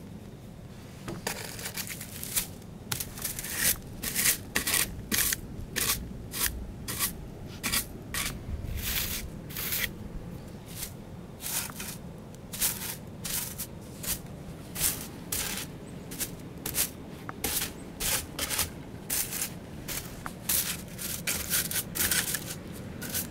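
Footsteps crunching in fresh snow, a little under two steps a second, starting about a second in, over a low steady hum.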